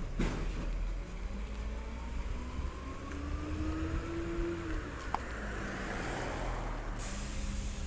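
A diesel Peterbilt 320 side-loader garbage truck running with a steady low rumble. A whine rises over a couple of seconds and then falls away, a sharp click comes about five seconds in, and a hiss starts near the end.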